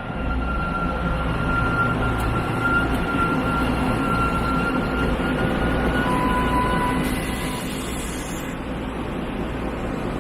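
Train running: a steady low rumble with a thin, steady high whine over most of it, and a second, lower whine briefly about six seconds in.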